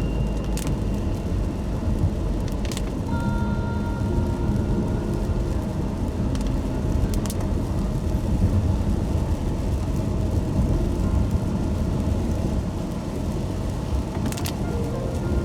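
A car driving on a wet road in the rain: a steady low rumble of tyres and running gear, with a few short sharp clicks.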